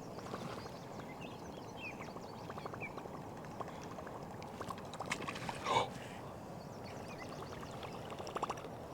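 Steady low water-and-wind background on a river, with a few faint short chirps in the first few seconds, a brief louder noisy burst a little past the middle, and a quick run of clicks near the end.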